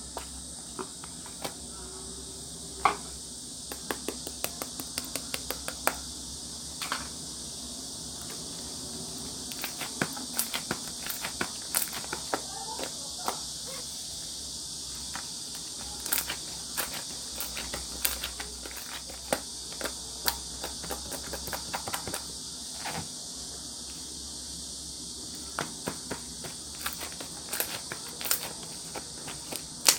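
Clear slime being squished and stretched by hand, giving irregular sticky pops and clicks, in quick clusters at times, over a steady high hiss.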